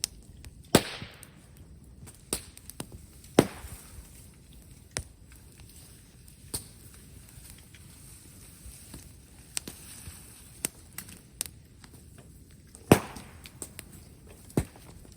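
Bonfire of brushwood and bamboo popping and crackling with irregular sharp cracks. The three loudest come about a second in, about three and a half seconds in and near the end, each followed by a brief hiss, with smaller pops scattered between.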